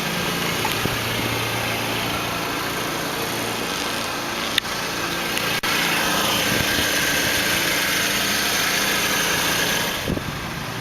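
2010 Hyundai Elantra Touring's 2.0-litre inline-four idling steadily. A click comes about halfway through, and a louder hiss over the second half drops away near the end.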